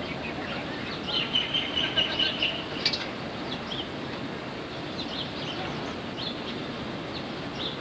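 Small birds chirping repeatedly, with a longer trill from about one to three seconds in, over a steady background hiss.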